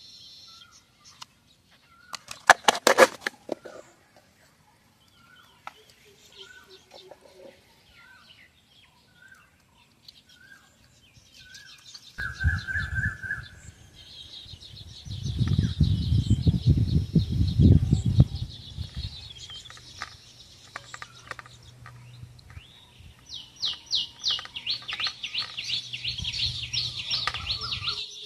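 Birds calling outdoors: a short call repeated about once a second, then a loud low fluttering rumble in the middle, and a rapid high chattering trill in the last few seconds.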